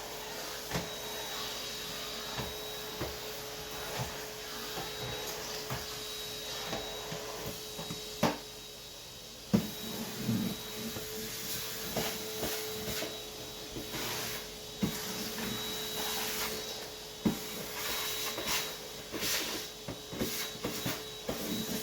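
Vacuum cleaner motor running steadily with a constant hum, while the nozzle knocks and bumps against surfaces now and then.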